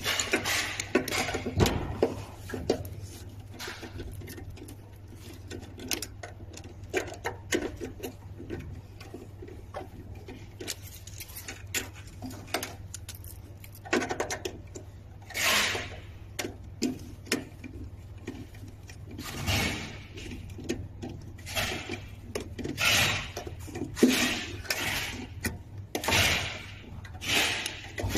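Handling noises from work on machine wiring and parts: irregular clicks, light clattering and rubbing, with several short rustles, over a steady low hum.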